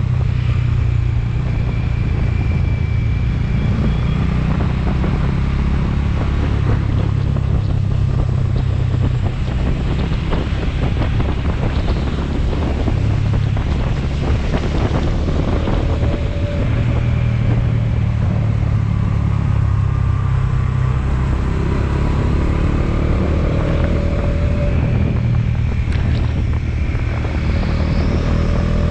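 Motorcycle engine running at a steady pace while riding, with wind buffeting the microphone; the engine pitch climbs over the last few seconds.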